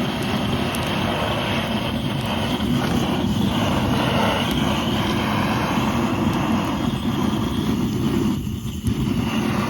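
Portable gas torch burning steadily with a continuous rushing flame as it is used to light firewood, briefly dropping off near the end.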